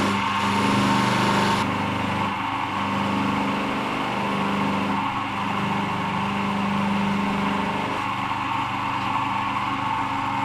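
Electric motor of a workshop machine running steadily while a bolt head is held to it and polished. The hum shifts a few times as the work is pressed on and eased off.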